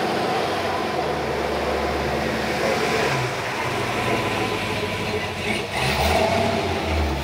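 A car engine running at a steady low pitch, getting louder twice near the end.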